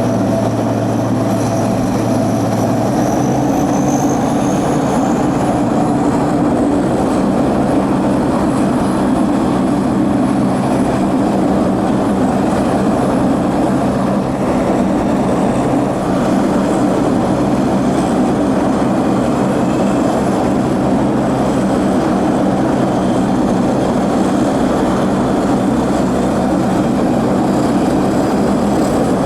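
Aircraft engines running at a steady, loud drone with a few steady low tones, and a faint rising whine in the first few seconds.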